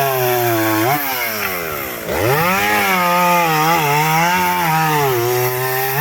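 Chainsaw running at high revs cutting firewood. The engine drops back about a second in, revs up again about two seconds in and holds high with small dips as it works through the wood, then eases off near the end.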